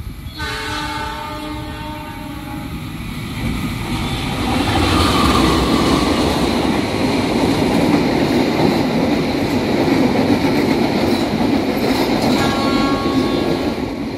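Train horn sounding a chord for about two seconds, then a passing train rumbling loudly with wheels clattering over the rails, and a second horn blast near the end.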